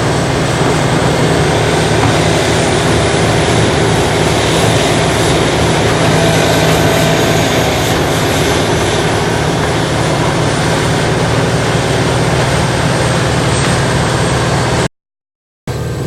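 Large tracked horizontal wood grinder running, a steady heavy diesel-machinery drone with a faint high whine above it. The sound cuts out completely for under a second near the end.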